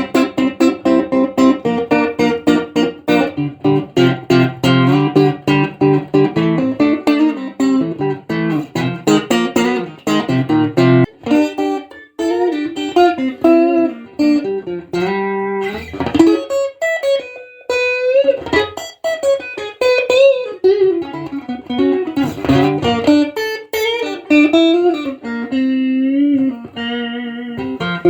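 Ash-body Stratocaster-style electric guitar played solo. It starts with a busy picked riff over low bass notes, then about eleven seconds in moves to a single-note melody with string bends and vibrato.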